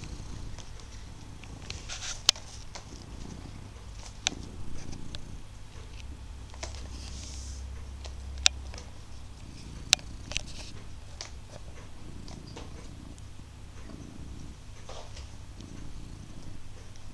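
Domestic cat purring loudly and steadily, its purr pulsing in repeated swells. A few sharp clicks break through it now and then.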